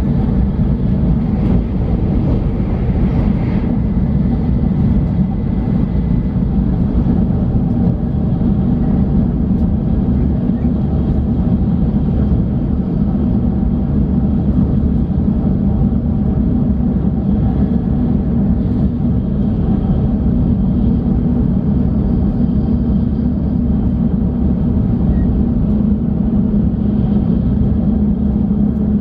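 Shinkansen bullet train running at speed, heard from inside the passenger cabin: a steady, loud low rumble that does not let up.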